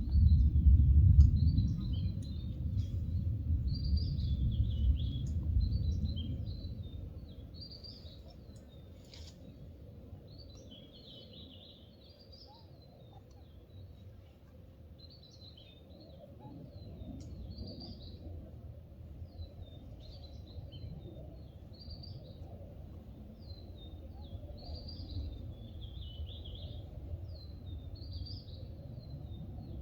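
Small birds chirping again and again, over a low rumble of outdoor noise that is loudest for the first several seconds and then eases off.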